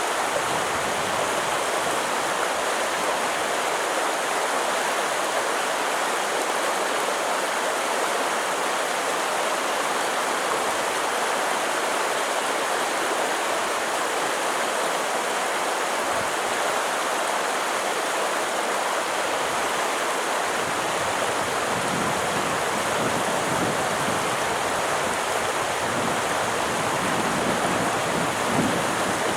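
Steady rushing of a flowing stream, with some low gusty rumbling in the second half.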